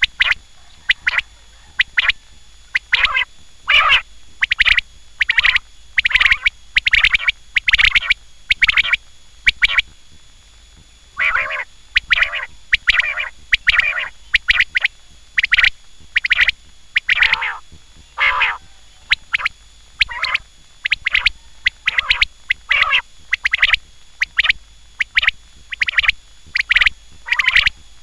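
Quail calling over and over in short, rapid, repeated calls, with a break of about a second midway.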